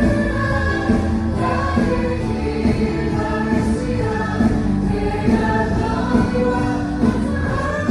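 Live worship music: a choir singing a Korean gospel song with accompaniment, picked up through the hall by an iPhone.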